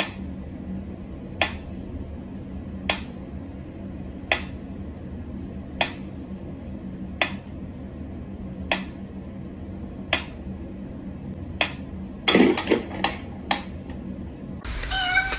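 Light, sharp clicks repeating evenly about once every second and a half, then several clicks in quick succession near the end, over a steady low hum.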